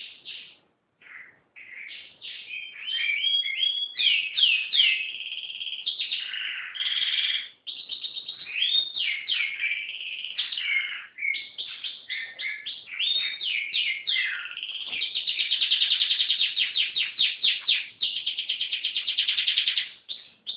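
Domestic canary in full song: a long, nearly unbroken run of chirps, slurred gliding notes and trills. Near the end comes a long, fast rolling trill, and then the song stops.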